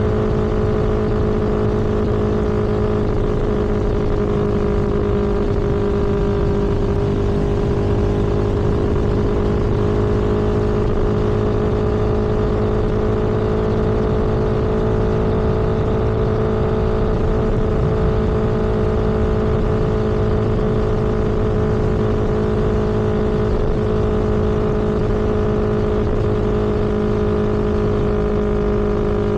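A vehicle engine running at a steady cruising speed, with a constant hum and road and wind noise and no change in pace.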